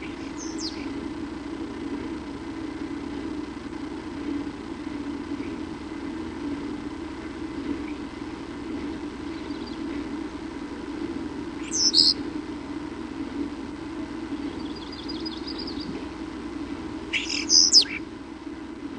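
A few short, high bird chirps over a steady low hum: a faint one near the start, a sharp one about twelve seconds in, a quick trill soon after, and the loudest pair of calls near the end.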